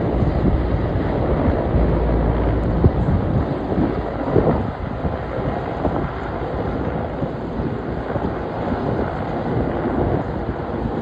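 Wind buffeting the microphone over a steady low rumble, heaviest for the first few seconds.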